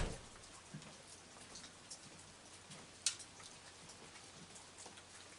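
Heavy hurricane rain falling steadily, with scattered drips and ticks. A sharp knock right at the start fades quickly, and a smaller tap comes about three seconds in.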